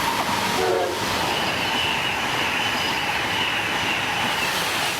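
Amtrak Acela Express high-speed trainset passing through at speed: loud, steady rush of wheel and air noise, with a thin high whine held from about a second in until near the end.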